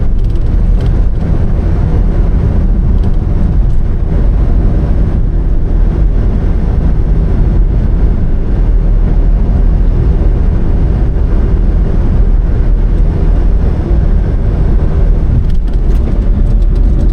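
Daihatsu Hijet panel van driving: a loud, steady low rumble of engine and road noise that cuts off suddenly near the end.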